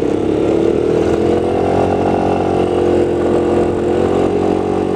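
Motorcycle engine running steadily while riding, its pitch rising a little in the first couple of seconds and then holding, with some wind noise.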